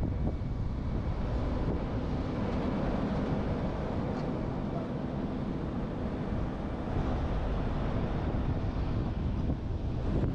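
Wind buffeting the microphone of a roof-mounted action camera on a moving truck, over a steady low rumble of road and tyre noise.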